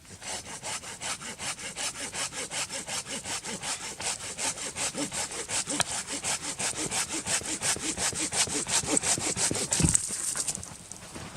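Silky Japanese handsaw sawing through dead wood in quick, even strokes. It ends about ten seconds in with a low knock, then stops.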